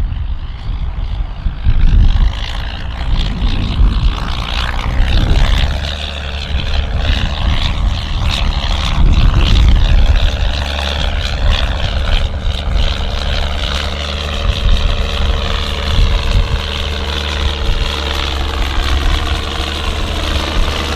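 Ford TW tractor's diesel engine running steadily under load while ploughing, with uneven low rumbling swells.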